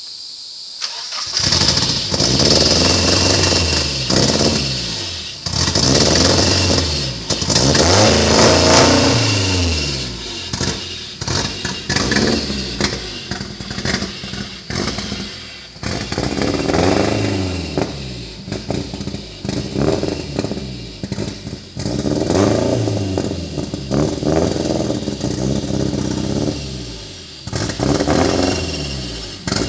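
Nissan KA24DE 2.4-litre twin-cam four-cylinder engine catching about a second in, then revved up and down over and over. It runs with its timing not yet set right and its exhaust not fully bolted on, so the exhaust leaks.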